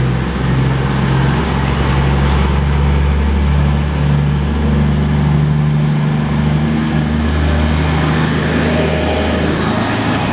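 CrossCountry Class 220 Voyager diesel train running at the platform, its underfloor diesel engines giving a steady low drone with a noisy rumble over it.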